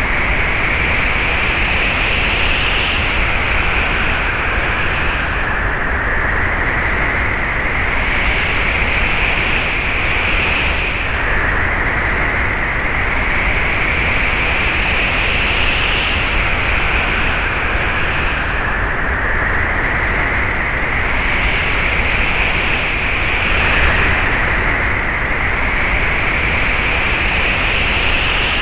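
Wind blowing steadily as a rushing noise, with a whistling edge that slowly climbs in pitch over several seconds and drops back, twice.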